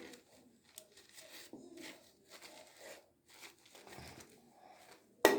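Soft rustling and crinkling as hands work shampoo through a Barbie doll's hair, then a single sharp knock near the end.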